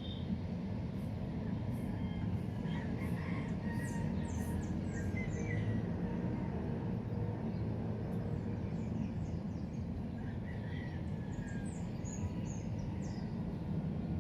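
Steady low outdoor rumble with faint, quick bird chirps, a few seconds in and again near the end.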